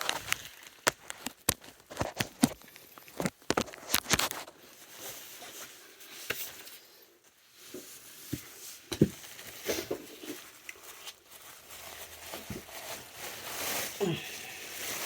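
Plastic sheeting crinkling and tearing as it is handled and spread out, in a run of sharp crackles and rustles, thickest in the first few seconds.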